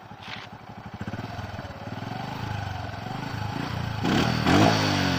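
Honda Dream Yuga 110 cc motorcycle's single-cylinder engine running through a modified exhaust, idling and then picking up, with a sharp throttle blip about four seconds in.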